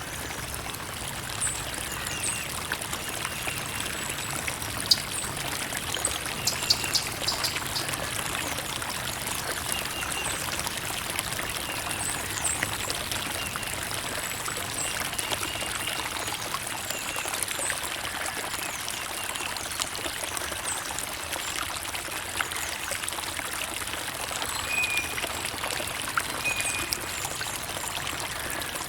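Creek water running and trickling steadily, with brief faint high tones now and then.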